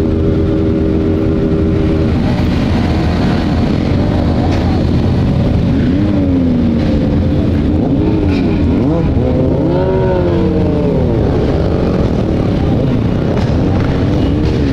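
Motorcycle engines running on the move, with a heavy rush of wind and road noise. Engine pitch rises and falls several times from about six seconds in, as throttles open and close.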